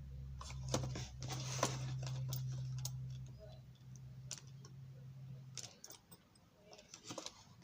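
Small sharp clicks and taps of tools and plastic model-train parts being handled at a workbench, over a low steady hum that cuts off about three quarters of the way through.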